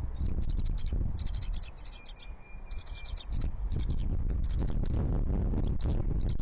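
Wind buffeting the nest camera's microphone as a low rumble that eases about two seconds in, then gusts up again. Over it come repeated bursts of rapid, high chirping ticks.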